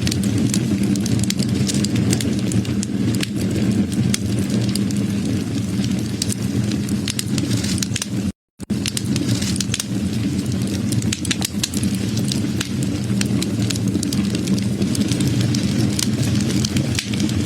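Wood fire burning, with a steady low rumble and many sharp crackles and pops. The sound cuts out completely for a moment about halfway, then carries on.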